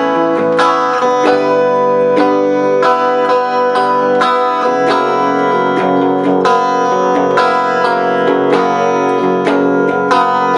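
Guitar playing chords in a steady rhythm, an instrumental passage between sung verses of a song.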